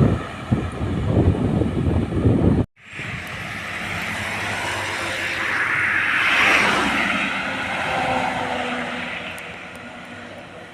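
A heavy road vehicle passes close with rumbling engine and tyre noise, cut off abruptly a little under three seconds in. Another vehicle's engine and tyre noise then swells, peaks about halfway through and fades away as it passes.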